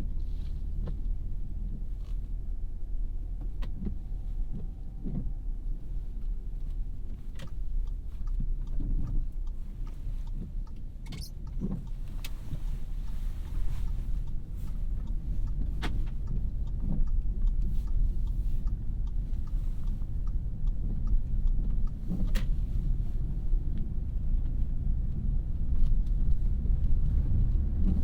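2017 Audi A3 with its 2.0-litre turbocharged four-cylinder driving, a steady low rumble of engine and road noise. Scattered sharp clicks and knocks sound over the rumble.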